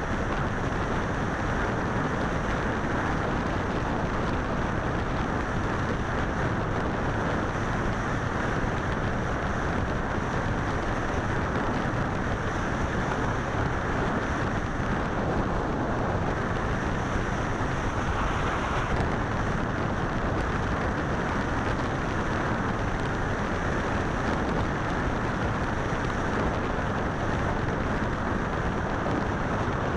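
Motorcycle on the move: steady wind rush on the microphone with the bike's engine running under it at an even speed.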